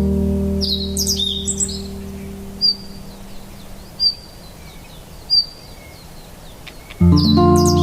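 Songbirds calling: one gives a short high chirp about every second and a half, and another sings a louder warbling phrase about a second in and again near the end. Beneath them a low ambient music note fades away, and a new low chord strikes near the end.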